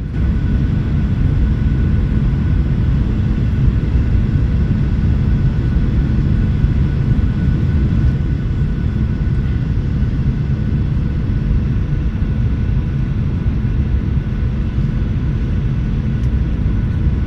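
Passenger jet during landing: a steady, loud low rumble of engines and airflow, with a few faint steady whining tones above it.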